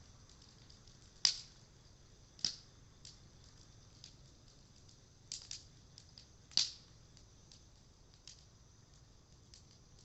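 Cedar wood fire crackling: irregular sharp pops and snaps, the loudest a little over a second in and again about two-thirds of the way through.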